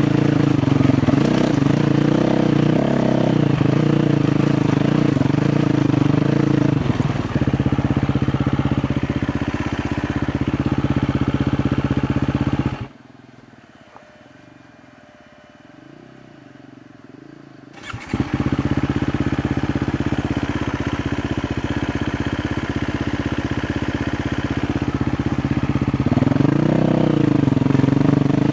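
KTM 350 XC-F single-cylinder four-stroke dirt bike engine running and revving up and down. About halfway through it cuts out abruptly, and about five seconds later it starts again and runs on, revving near the end.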